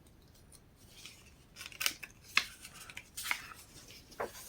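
Pages of a paper catalog being handled and turned: about four short, crisp paper rustles, with fainter rustling between them.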